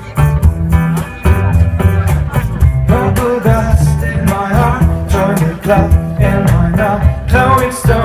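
Band music: plucked guitar over a steady bass line, with a singing voice coming in about three seconds in.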